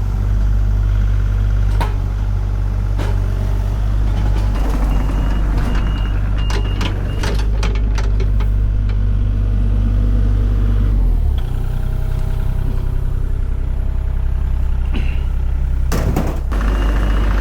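A heavy equipment engine running steadily, its note changing about eleven seconds in, with a reversing alarm beeping in two stretches and occasional knocks from debris being handled.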